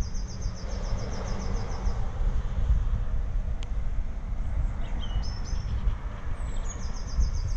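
A small bird singing a quick, high, rhythmic trill at the start and again near the end, with a few short chirps in between, over a steady low rumble.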